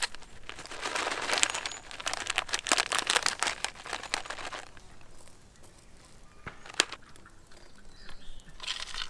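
Crisp crunching and crackling for about four seconds, followed by a few sharp clicks and a softer crackle near the end.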